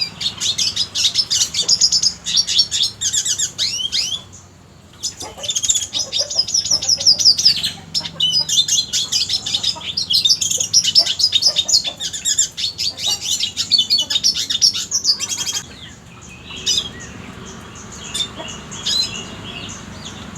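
Red siskin singing: long runs of fast, high twittering and trills, with short breaks about four and eight seconds in, thinning to scattered short calls after about sixteen seconds.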